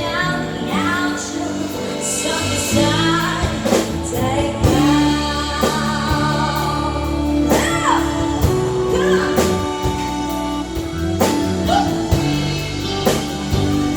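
Live rock band performance of a Mandopop song: voices singing over electric guitars, bass and drum kit.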